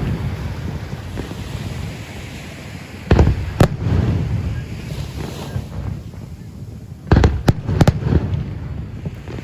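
Aerial firework shells bursting with sharp bangs: two about three seconds in and a quick run of three about seven seconds in, over a steady low rumble from the display.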